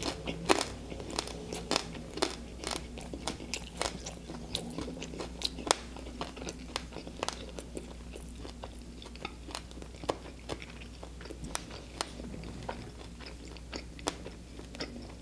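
Close-miked chewing of a crispy fried chicken wing: an irregular run of small crunches and mouth clicks, a few each second.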